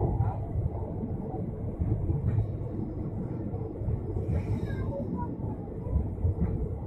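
Indian Railways passenger train rolling slowly through a station, heard from a coach: a steady low rumble of the wheels on the track.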